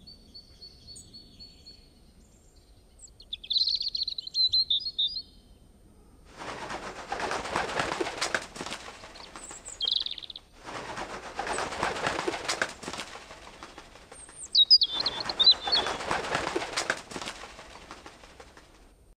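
Small birds chirping in short high bursts, between three stretches of rustling, flapping noise of about two seconds each.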